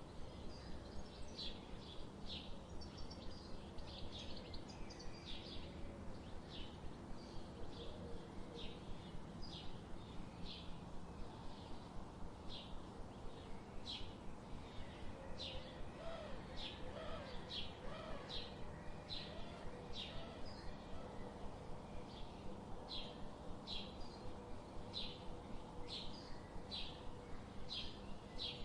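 Birds chirping: a steady run of short, high chirps, roughly one or two a second, over a constant background hiss. A few lower, gliding whistled notes come in around the middle.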